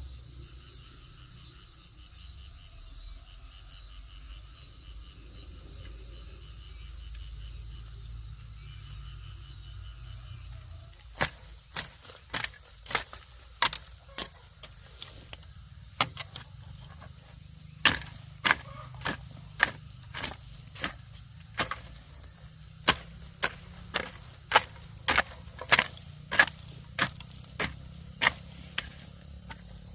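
Insects trilling faintly, then, about a third of the way in, a long series of sharp, irregular knocks, one or two a second: a hand tool striking wood while building a chicken coop.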